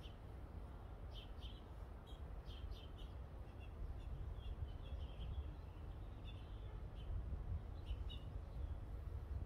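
Small birds chirping in short, high calls, several at a time and repeating throughout, over a steady low background rumble.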